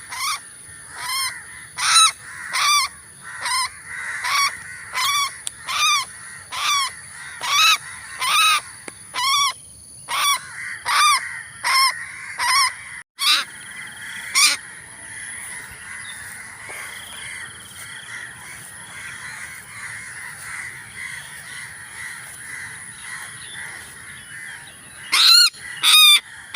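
A bird gives loud, harsh alarm calls in a steady series, about one every 0.7 s, agitated at the netting. The calls stop about 14 s in, leaving a steady high insect-like buzz, and resume loudly near the end.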